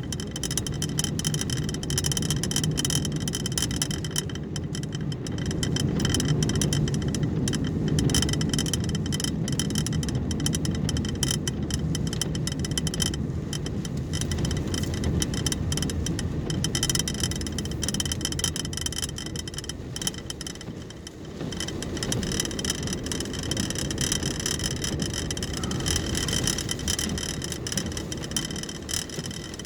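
Car driving, a steady low road and engine rumble heard from inside the cabin, easing briefly about two-thirds of the way through.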